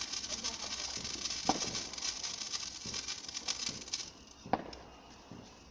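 Hand-held sparkler burning, a steady crackling fizz of tiny pops, which stops suddenly about four seconds in; a single faint knock follows.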